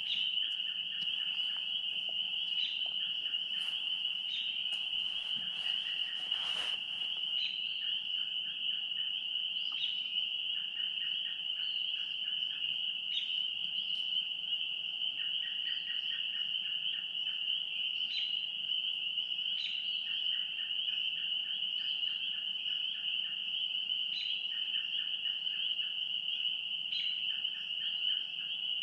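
A steady, high-pitched chorus of calling animals, with short rapid trills recurring every few seconds. There is a brief louder noise about six and a half seconds in.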